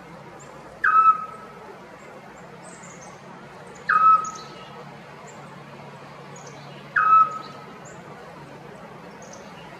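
An owl calling: three short whistled notes about three seconds apart, each dropping quickly in pitch and then holding briefly. Faint high chirps of other birds are in the background.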